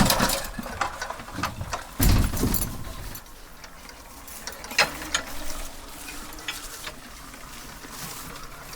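A run of mechanical clicks and knocks, with heavy thumps at the start and about two seconds in, then lighter scattered clicks.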